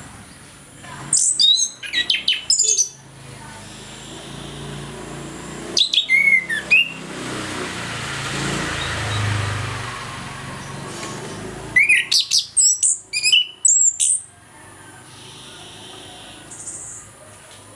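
Chestnut-capped thrush (anis kembang) in full song, giving three bursts of rapid, sweeping high notes, with a hiss between the second and third.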